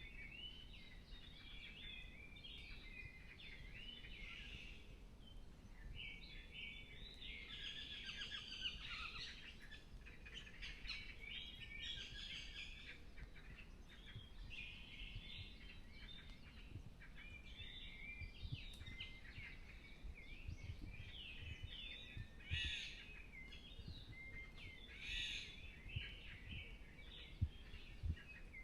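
Several songbirds singing together in a forest, an unbroken overlapping chorus of high chirps and trills, with a few louder, sharper calls near the end.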